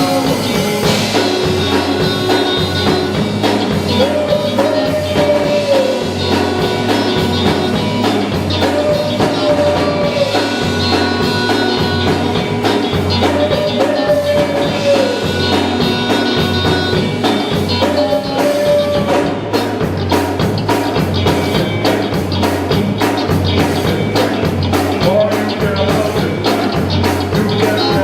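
Live gospel group performing: a band with drum kit keeps a steady beat under long held notes that recur about every four to five seconds.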